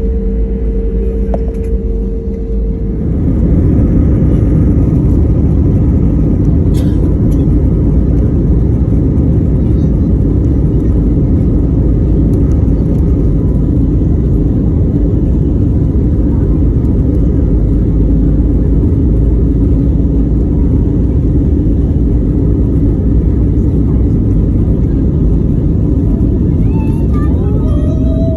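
Jet airliner engines spooling up to takeoff thrust: a steady whine for the first few seconds, then about three seconds in the sound jumps to a loud, steady rumble, the takeoff roll.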